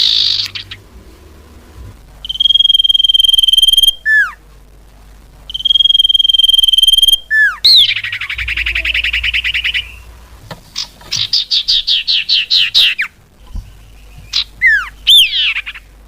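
Lure-call recording of a common iora (cipoh) singing: long, steady, high whistles about one and a half seconds each, short downward-swooping notes, then a buzzy trill and a quick run of repeated notes.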